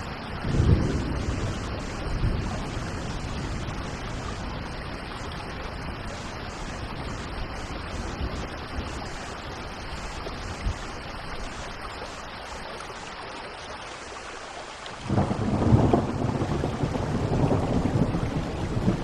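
Steady rain falling in a thunderstorm. A low roll of thunder swells about a second in, and a louder rumble of thunder breaks out suddenly near the end and keeps rolling.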